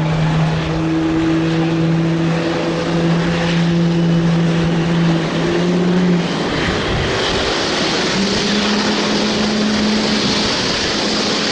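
Jet engines of a Starlux Airbus A321neo (CFM LEAP-1A turbofans), loud and continuous. A steady low hum holds for about the first six seconds, then the pitch shifts and a strong high hiss builds.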